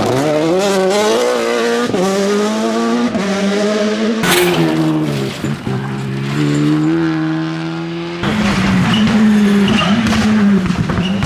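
WRC rally car engines at full throttle on a tarmac stage. The revs climb and drop back with each quick gearshift, there is a sharp bang about four seconds in, and the revs fall away as the car slows. A second car's engine takes over abruptly about eight seconds in.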